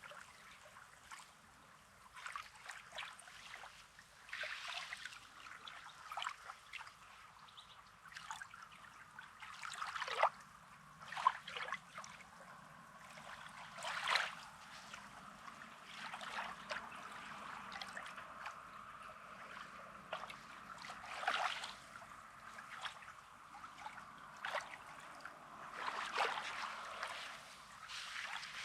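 Small sea waves lapping and washing on a rocky sand shore: a steady wash broken by irregular short splashes every second or few seconds.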